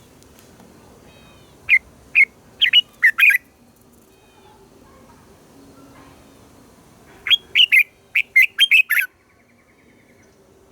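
Red-whiskered bulbul singing: two loud bursts of five or six quick, clear notes, about five seconds apart, with fainter bird chirps between them.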